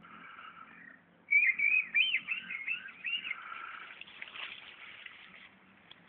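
A songbird singing a fast phrase of quick rising and falling whistled notes, loudest about a second in and trailing off over the next few seconds, with fainter bird calls behind it.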